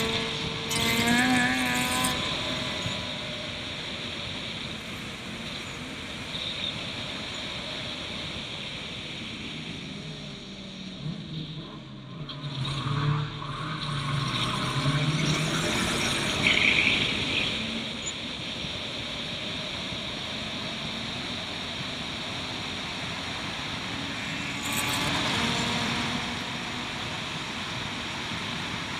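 Turbocharged Suzuki Swift race car running at speed on the track, its engine note rising and falling a few times over a steady rush of road and wind noise.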